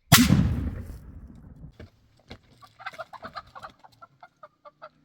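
A loud thump right at the start that dies away over about a second and a half, followed by fowl clucking: a quick run of short, clipped calls, several a second, that grows busier towards the end.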